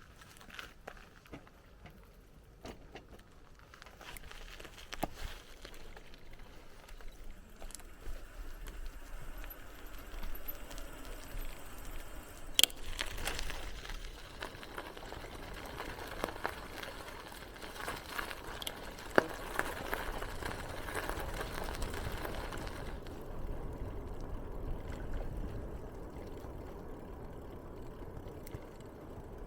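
Bicycle being ridden: tyres rolling on the path, with the bike's loose parts rattling and clicking. It grows louder about a third of the way in and eases off again near the end.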